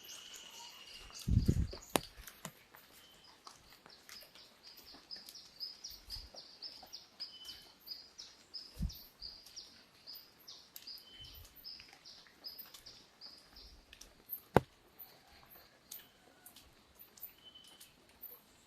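Birds chirping outdoors, a long run of quick high chirps at about three or four a second, over a faint rural background. A low thump comes about a second and a half in, and a sharp tick near the end.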